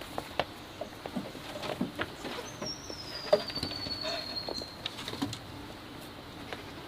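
Irregular light taps and rustles, with one thin whistle that falls slowly in pitch for about two seconds near the middle.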